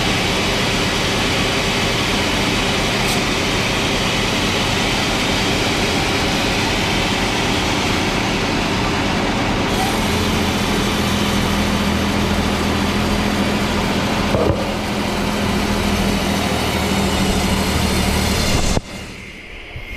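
Large sawmill machinery running with a loud, steady mechanical din. A steady low hum joins about halfway through, and the noise drops away abruptly near the end.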